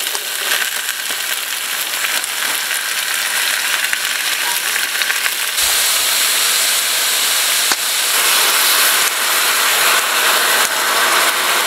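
Andouille sausage and vegetables frying in a skillet on a propane camp stove: a steady sizzle, a little louder from about halfway through.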